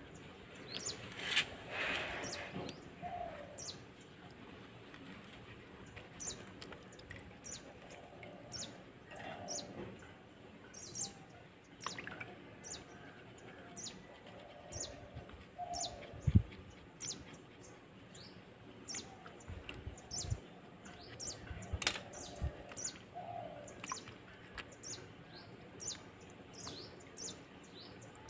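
Small birds chirping over and over, many short high chirps. Faint water sloshing as mushrooms are washed by hand, and one sharp thump just past halfway.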